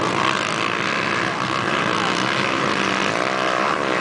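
Motocross bikes racing, several engines running and revving at once. About three seconds in, one bike's engine note rises and falls as it revs.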